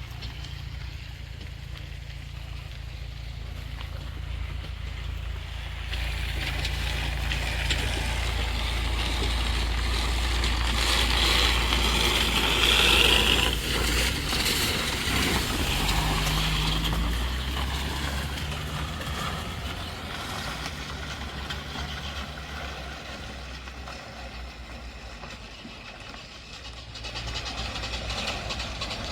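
A vehicle's engine running in floodwater on the road, with a rushing hiss that swells to a peak around the middle and then dies away.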